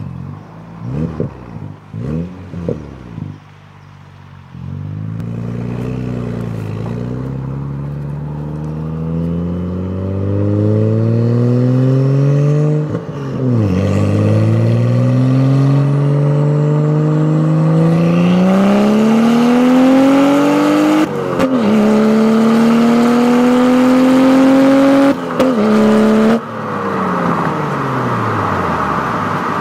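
BMW 335xi's N55 turbocharged straight-six through an Active Autowerke quad exhaust and BMS downpipe, heard from outside the car: a few quick throttle blips, then long pulls with the engine note climbing and dropping at three upshifts, before the pitch falls away as the throttle is lifted near the end.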